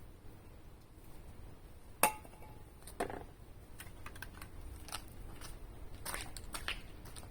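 Scattered light clicks and taps of hand tools and small metal parts being handled. One sharp metallic clink about two seconds in rings briefly, and a softer knock follows a second later.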